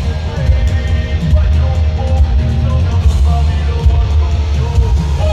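Live heavy rock music played loud through a concert PA: pounding drums and bass, with electric guitar.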